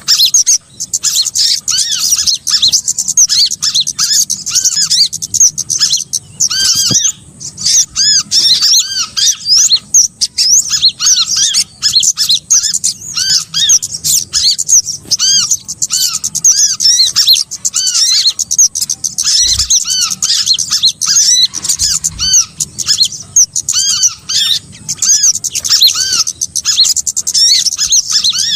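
Bird-lure recording of small songbirds, sunbirds among them, chirping densely and without pause: rapid high, arched chirps overlapping from several birds.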